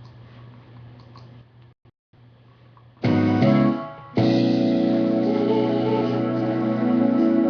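Faint room hum, then organ and piano music starting suddenly about three seconds in. A first chord dies away, and a second later held chords take over.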